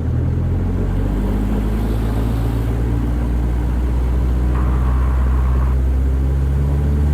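Cessna 152's four-cylinder Lycoming engine running at full power as the takeoff roll begins, a steady low drone.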